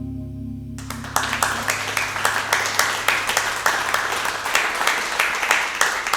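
A final acoustic guitar chord ringing out and fading, then a small audience breaking into applause about a second in, with individual claps distinct.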